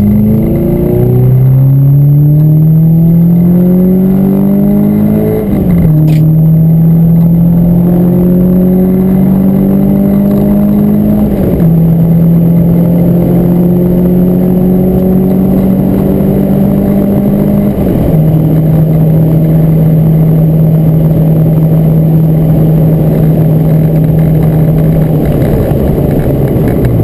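Renault Clio 172 Cup's 2.0-litre four-cylinder engine heard from inside the cabin, pulling under hard acceleration. The pitch climbs and falls sharply at each upshift, four times, with each higher gear pulling longer and more slowly. The pitch drops once more near the end, over a steady rush of road and wind noise.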